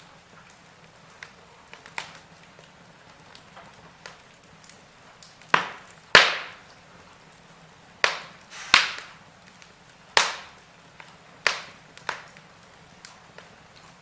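Wood fire in a fireplace crackling over a faint steady hiss, with a cluster of loud, sharp pops in the middle, each snapping off quickly.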